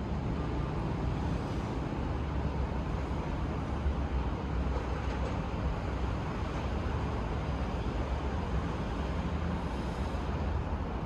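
Steady low rumble of a car being driven, with road noise.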